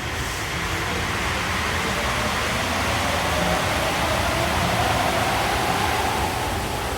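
Yurikamome rubber-tyred automated guideway train pulling out of the station: a steady rolling hiss with a faint motor whine rising in pitch as it gathers speed, loudest about five seconds in and then easing.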